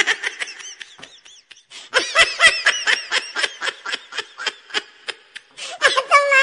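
High-pitched laughter: a short burst at the start, then a long run of quick, rapid-fire laughs from about two seconds in.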